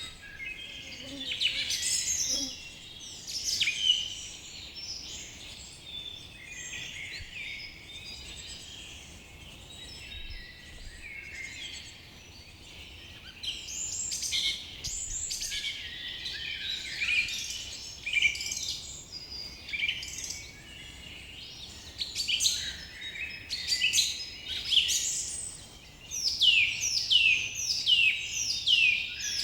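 Several birds singing and chirping together in a forest chorus, with a run of quick repeated falling whistled notes near the end.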